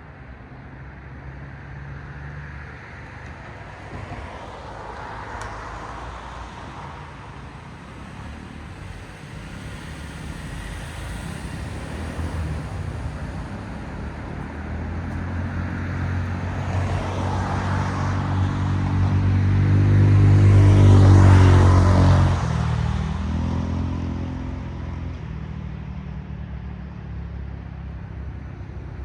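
Cars passing on a road, their tyre noise swelling and fading. A little over two-thirds through, a vehicle with a deep engine hum passes close and is loudest, its pitch dropping as it goes by.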